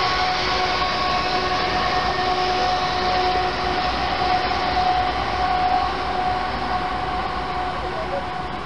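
Union Pacific freight train rolling past: a steady, loud rumble and rush of the cars on the rails, with a few thin steady ringing tones over it, easing off a little near the end.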